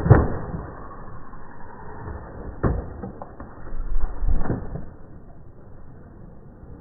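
Slowed-down sound of RC mud trucks: a low, deep rumble broken by heavy thuds, one at the start, one about two and a half seconds in, and a double thud about four seconds in.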